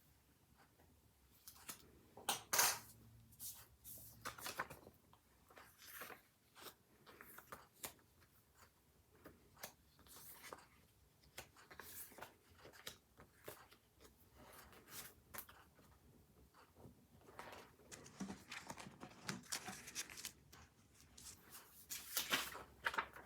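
Hands working with paper at a desk: scattered rustling and short tearing sounds with light taps and clicks. It is loudest about two and a half seconds in and again near the end.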